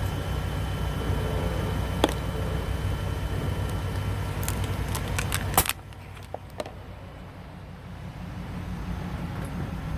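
Car engine running with a steady low hum. About two seconds in there is a single click, and around four and a half to five and a half seconds in a quick run of sharp cracks ends in a loud snap as something crunchy is crushed under a tyre. Right after the snap the engine sound drops away abruptly and builds back slowly.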